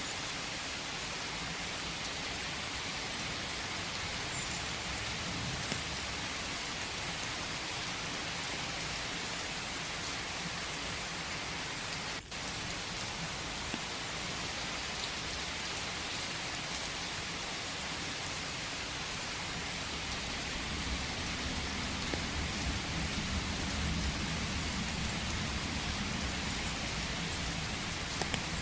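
Steady rain falling, an even hiss, with a brief dropout about twelve seconds in. A low rumble builds in the last third.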